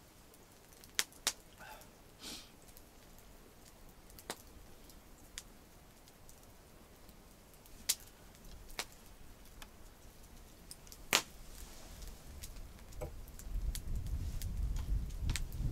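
Campfire crackling: a handful of scattered sharp pops spread over several seconds, with a low rumble building near the end.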